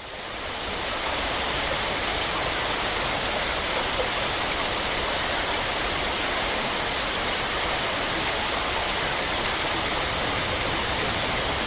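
Steady, even rush of water from heavy rain or floodwater, fading in over the first second.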